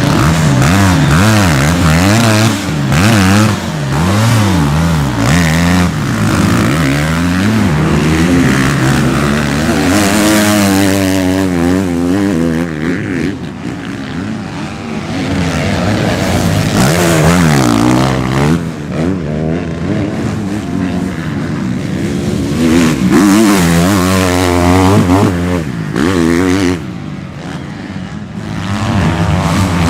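Motocross bikes racing, their engines revving up and falling back again and again as they accelerate, shift and pass, with several bikes overlapping at times.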